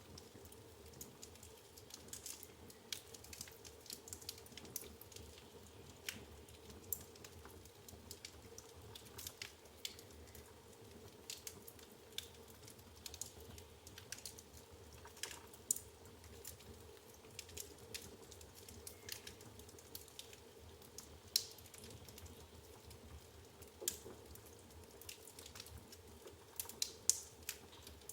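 Wood fire in a fireplace crackling, with irregular sharp snaps and pops of burning logs over a faint low rumble of the flames.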